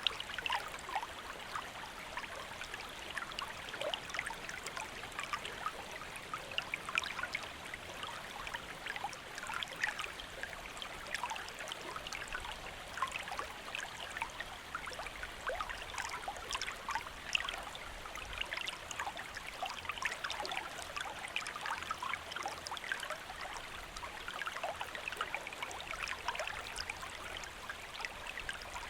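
Shallow stream or river flowing steadily, water babbling and splashing over rocks with many small trickling splashes.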